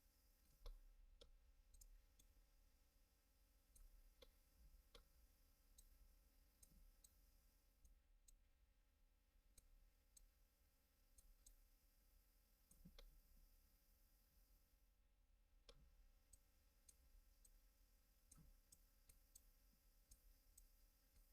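Near silence: faint room hum with scattered, irregular clicks of a computer mouse.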